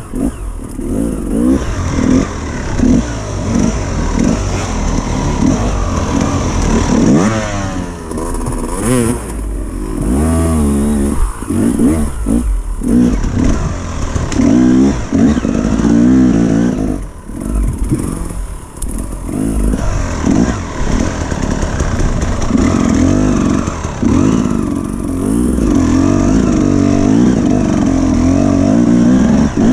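Dirt bike engine revving up and down repeatedly, its pitch rising and falling every second or two, easing off briefly a few times.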